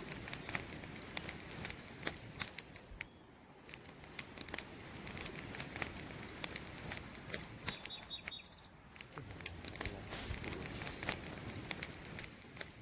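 Wood campfire crackling, with frequent sharp pops and snaps. A few brief, faint high chirps come a little past the middle.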